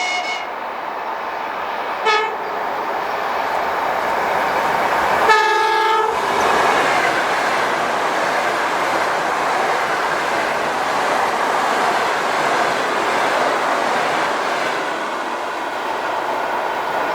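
ЭП2ДМ electric multiple unit sounding its horn: a blast that ends just after the start, a short toot about two seconds in and a longer blast around five seconds in. Then the steady rush and rumble of the train's wheels on the rails as it passes.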